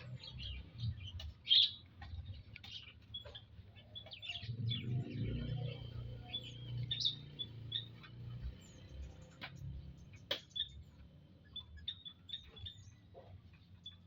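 Prenjak lumut birds chirping: short, high calls scattered throughout. A low rumble runs from about four to seven seconds in, and a sharp click comes near ten seconds.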